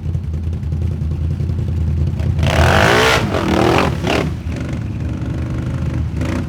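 4x4 ATV engines running with a steady low drone; about two and a half seconds in, one revs hard and loud, then its pitch falls away.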